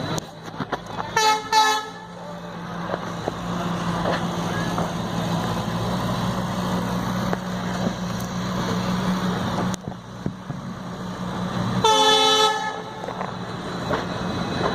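A vehicle horn gives two short toots about a second in and one longer toot near the end. Under it an engine runs steadily with a low hum.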